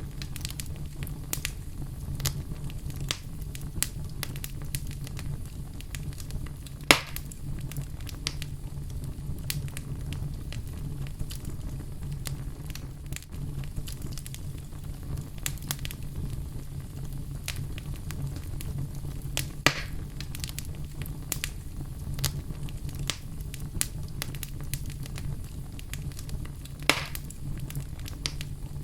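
Wood fire burning in a fireplace: a steady low rumble of flames with frequent small crackles and three louder pops, about 7, 20 and 27 seconds in.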